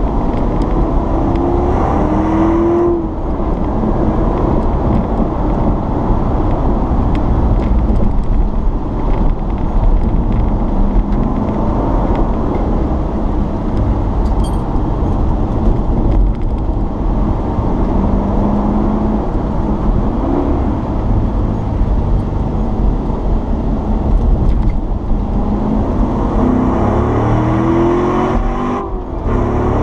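Chevrolet Corvette Stingray's V8 engine heard from inside the cabin under hard track driving, revving up and pulling through the gears. There are brief dips at shifts about three seconds in and near the end, over steady road and wind noise.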